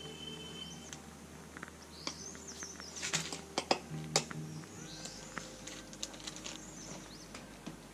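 Birds chirping in short, bending calls over soft background music with held notes, and a few sharp clicks about three to four seconds in.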